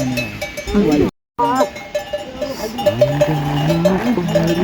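Bells on a herd of livestock clanking repeatedly, mixed with drawn-out animal calls. The sound cuts out completely for a moment about a second in.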